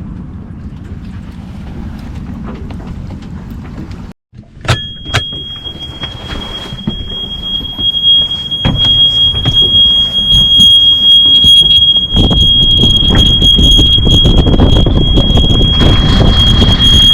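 A steady high-pitched electronic buzzer tone starts about five seconds in and keeps sounding. From about eight seconds a boat's inboard engine rumble comes up and grows louder, running under the buzzer.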